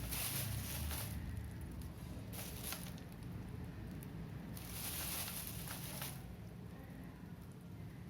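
Chunks of wet clay (multani mitti and nakkumatt) being squished and worked in water, in three spells of soft squishing and crackling, the longest in the middle.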